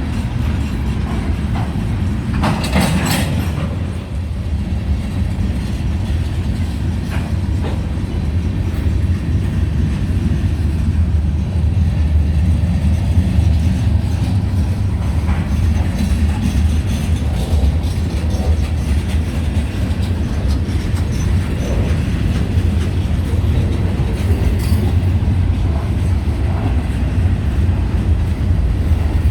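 Freight railcars of a long CSX train rolling past in a steady low rumble, with scattered clicks of wheels over the rail joints. A brief burst of hissing noise comes about three seconds in.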